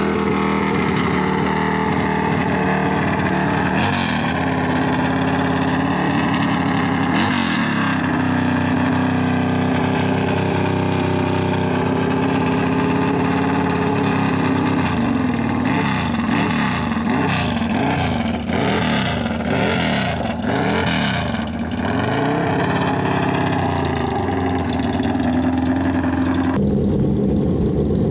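Motorcycle engines running loud and steady, with a stretch of wavering revs past the middle. Near the end it cuts abruptly to a lower, steadier engine note.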